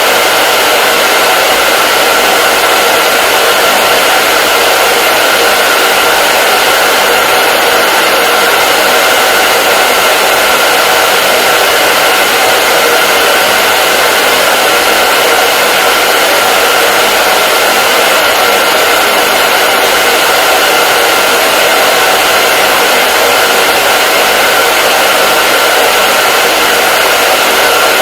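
Hair dryer running steadily: an unbroken, even rush of blowing air with a faint steady whine from its motor.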